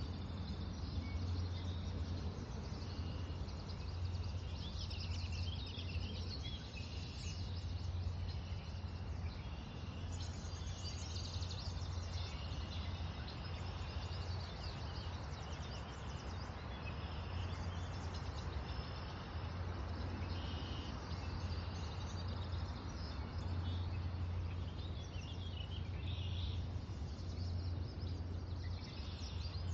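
Several small birds chirping and singing, short high calls and trills all through, over a steady low rumble.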